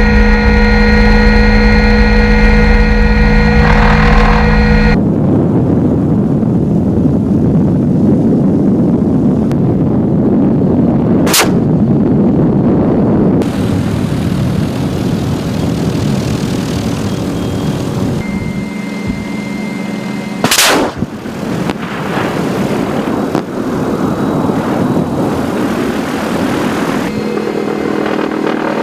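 Helicopter turbine engine whining steadily, giving way to a loud rushing noise broken by two sharp gunfire-like bangs, about eleven and twenty seconds in; the steady whine returns near the end.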